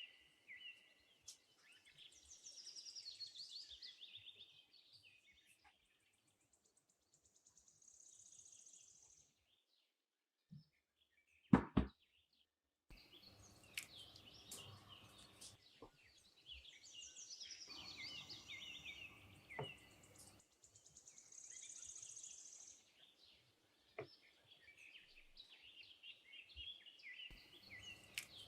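Small birds chirping and twittering faintly in repeated bursts of song, with one sharp click about halfway through.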